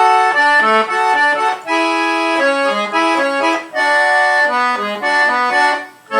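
Accordion playing a melody over sustained chords, in short phrases with brief breaks between them.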